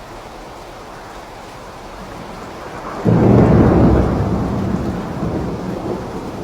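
Steady rain with a thunderclap about three seconds in: a sudden loud, deep rumble that fades slowly under the rain.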